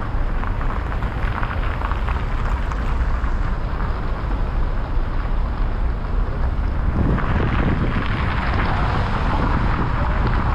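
Steady rumble of road traffic mixed with wind buffeting the microphone, growing louder and fuller about seven seconds in.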